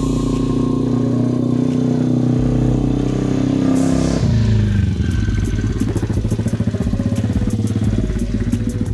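Small off-road vehicle engine running at steady revs, then dropping sharply about four seconds in to a slower, evenly pulsing idle.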